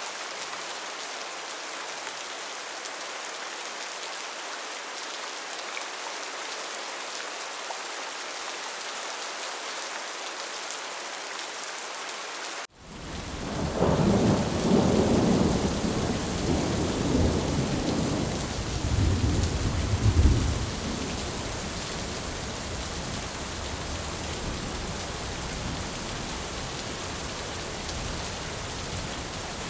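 Steady rain falling on a tin roof. About halfway through, the sound drops out for an instant, then a long rumble of thunder swells twice over about eight seconds before the steady rain carries on.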